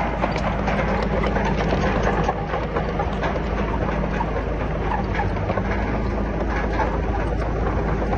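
Komatsu D31PX bulldozer's diesel engine running steadily under a continuous metallic clatter of its steel tracks as it works rock and soil.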